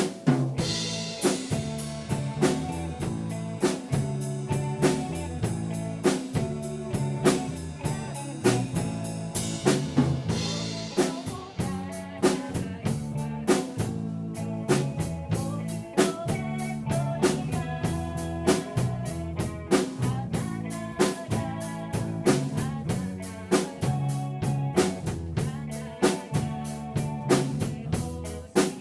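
Live rock band playing an instrumental passage: drum kit with snare and bass drum keeping a steady beat under bass and electric guitar, the full band coming in at the start after a solo guitar part.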